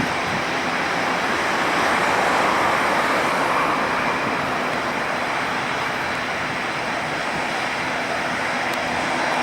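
Jet roar of an Airbus A319-112's CFM56 turbofans, a steady rushing noise that swells slightly a couple of seconds in and then eases a little.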